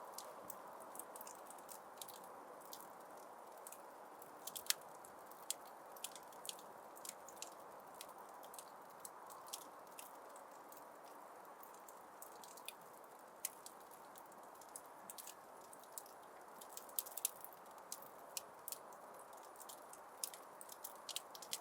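Wood fire crackling in a fireplace: irregular sharp pops and snaps over a steady soft hiss of the flames, with small clusters of pops about four seconds in, around seventeen seconds, and again near the end.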